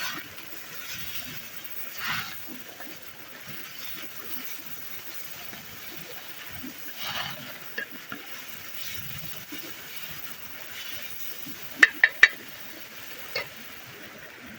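A utensil stirring and scraping in a pan of food cooking over a campfire, with a faint steady sizzle. Three sharp metallic clinks in quick succession come near the end.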